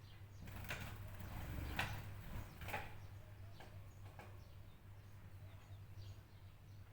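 Birds giving short, sharp chirps: three stronger calls in the first three seconds, then fainter scattered ones. A steady low hum runs underneath.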